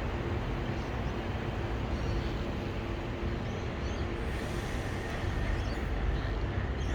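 Steady low rumble and hiss of outdoor background noise, with no distinct calls or knocks.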